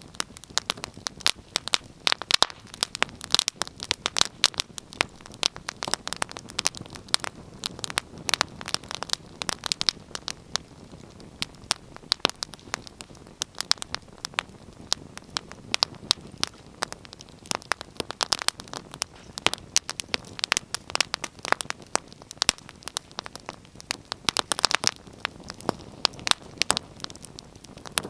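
Wood fire crackling: a steady run of irregular sharp pops and snaps over a soft hiss of burning.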